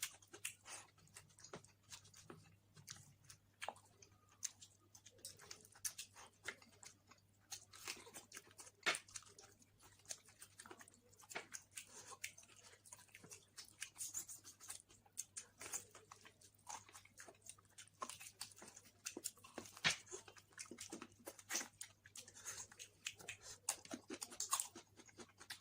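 A person chewing mouthfuls of basmati pulao and mutton curry, with many irregular wet mouth clicks and smacks, a few louder than the rest.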